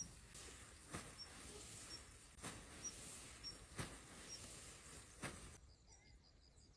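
Faint small-bird chirps, short high notes repeating every half second or so, with a few soft clicks in between. A low background hiss drops away about five and a half seconds in.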